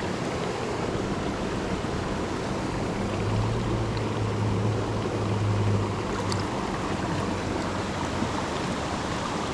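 Creek water running: a steady rushing flow.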